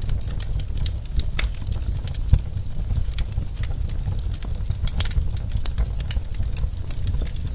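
Wood fire in a clay fireplace crackling, with irregular sharp pops over a steady low rumble; one louder pop comes a little over two seconds in.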